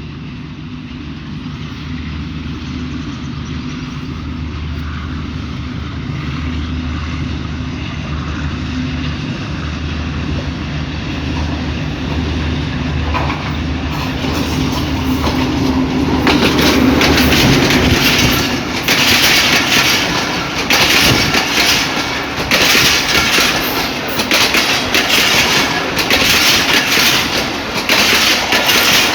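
HBU20 diesel-electric locomotive approaching under notched-up power, its engine drone growing steadily louder until it passes about 17 seconds in. Then the express's coaches rush by with a regular clickety-clack of wheels over rail joints, the clacks coming in pairs.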